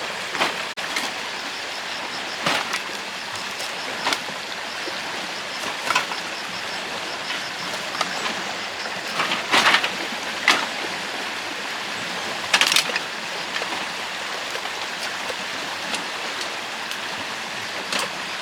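Steady rushing of flowing water, with scattered sharp knocks and clatters every second or few.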